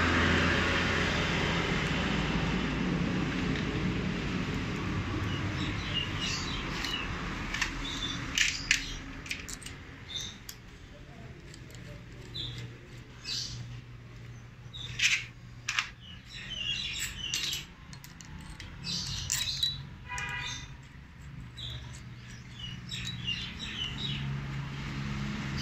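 Small birds chirping on and off, with a quick trill about two-thirds of the way in and a few sharp clicks among the chirps, over a steady hum that fades away over the first several seconds.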